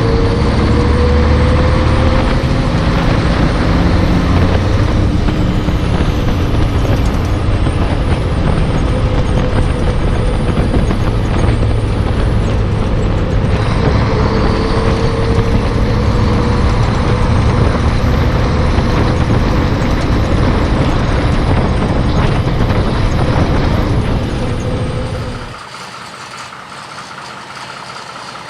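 Heavy diesel truck engine running on the road under load. Its pitch slowly rises twice as it pulls through a gear, and the loud engine noise drops away sharply near the end.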